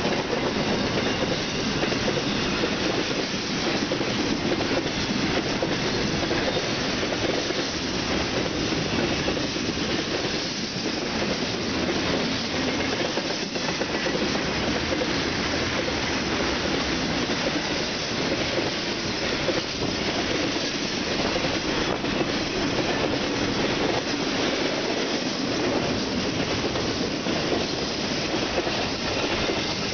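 An intermodal freight train of truck trailers on flatcars rolling past. Its steel wheels make a steady noise on the rails that holds even throughout.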